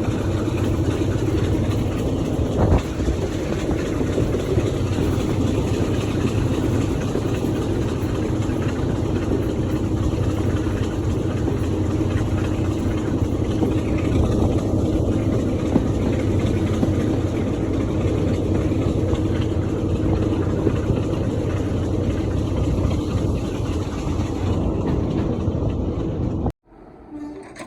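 Heritage diesel locomotive engine running at a steady, unchanging note, with a constant low hum. It cuts off suddenly near the end.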